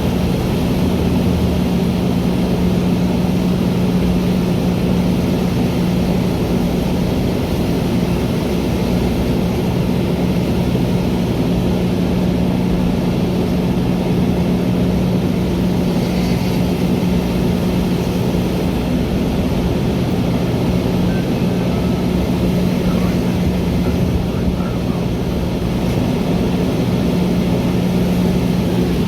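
Steady drone of a commuter train: a constant low hum with overtones over an even rumbling noise, with no change in pitch or level.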